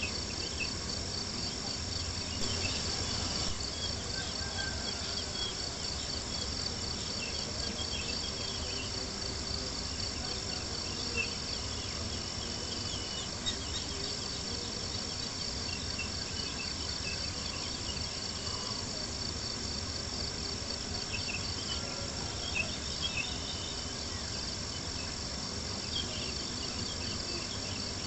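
Crickets chirping in a steady, pulsing chorus over a crackling campfire, with a few sharper pops here and there.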